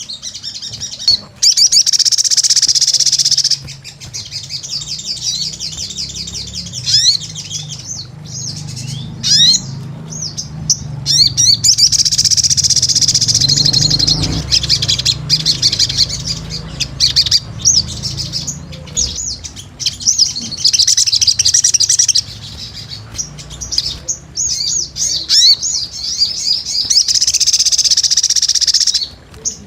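Crimson sunbird (sogon) singing vigorously: long runs of rapid, high twittering trills in repeated bouts a few seconds long, with single chirps between them, over a low rumble.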